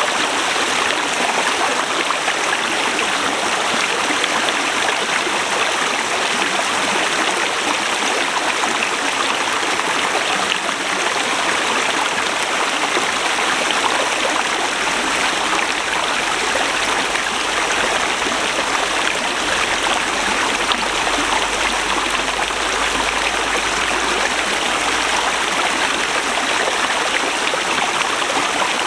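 Forest river running steadily: a dense, even rush of water.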